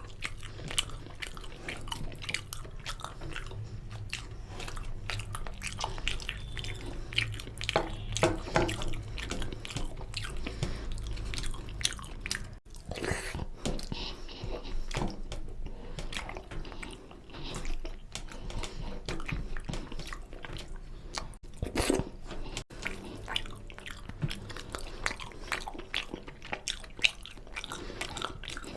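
Close-miked chewing and biting of mutton curry and rice, with many irregular wet smacks and clicks.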